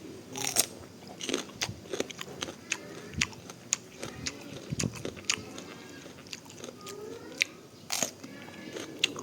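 Someone biting into and chewing a sweet chili pepper: a run of sharp, crisp crunches at irregular intervals.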